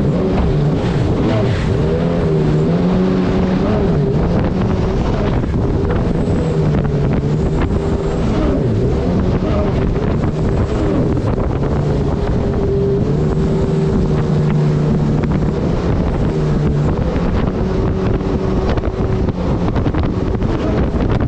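Turbocharged Honda engine of a mini jet boat running steadily under load, its note rising and falling slightly with the throttle, over a rush of noise and wind on the microphone.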